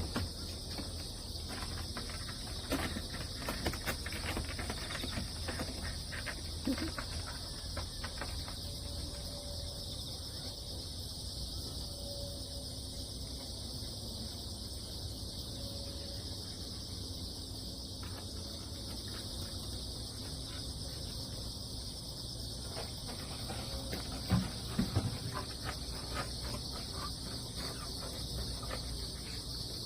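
Crickets and other grass insects chirring steadily in a dense chorus, with a few short knocks near the end.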